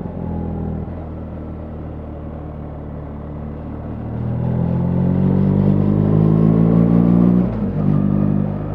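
BMW R 1300 GS boxer-twin engine running under way, steady at first, then rising in pitch as it accelerates from about four seconds in, before dropping suddenly near the end and settling lower.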